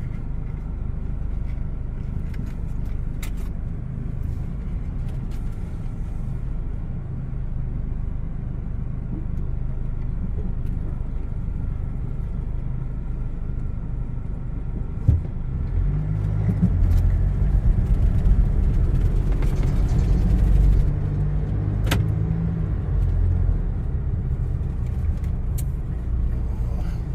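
Steady low vehicle engine rumble that grows louder and more throbbing for a few seconds past the middle, with a single sharp knock just before and a short click just after the louder stretch.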